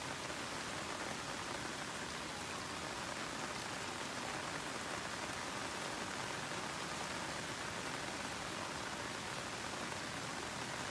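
Steady rain falling on leafy garden plants: an even hiss that does not change.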